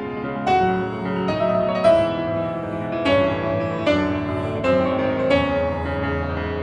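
Slow solo piano music: single notes and chords struck about once a second, each ringing out and fading.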